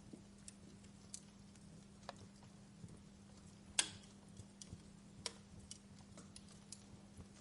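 Wood fire crackling in a fireplace: scattered irregular pops and snaps, the loudest about four seconds in, over a faint hiss.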